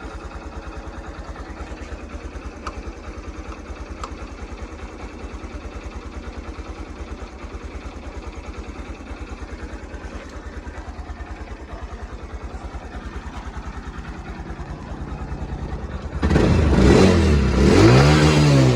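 Honda Grom JC61's 125 cc single-cylinder four-stroke engine idling with a steady rapid putter. About sixteen seconds in it is revved hard, the pitch climbing and then falling back.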